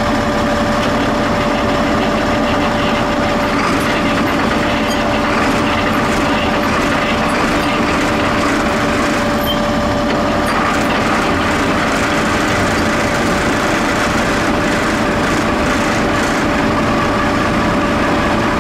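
Diesel engine of a 1997 Gillig transit bus running steadily on a cold start, with a constant whine held over the engine note.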